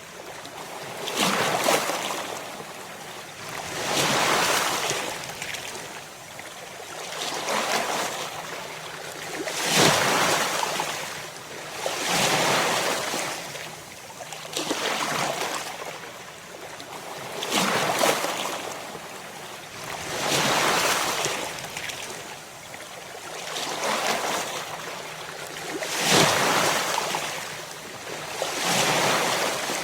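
Ocean waves breaking on the shore in a steady rhythm, one about every two and a half to three seconds. Each is a hissing rush of surf that swells and then fades.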